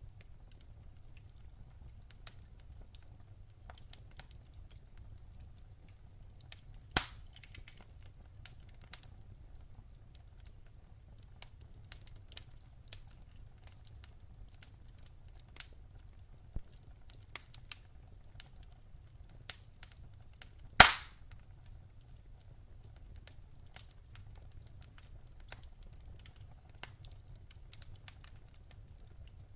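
Wood campfire crackling: scattered small snaps over a low steady rumble, with two loud pops, one about a quarter of the way in and another about two-thirds of the way in.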